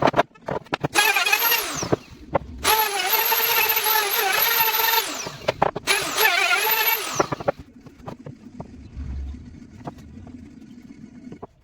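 A handheld electric power tool's motor running in short bursts, a high whine that drops in pitch as the motor spins down each time it is let off. It stops after about seven and a half seconds, leaving light taps and handling noises.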